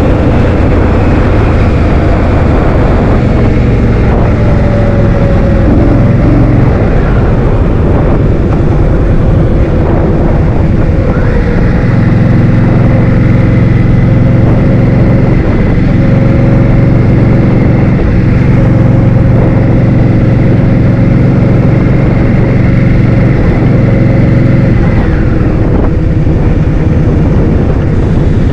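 Heavy wind buffeting on the microphone while riding, with a vehicle engine running underneath. The engine's pitch drops about six seconds in, climbs again about eleven seconds in and eases off again near the end.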